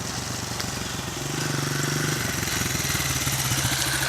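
Honda CRF70F dirt bike's small single-cylinder four-stroke engine running, growing louder about a second and a half in as the bike comes closer.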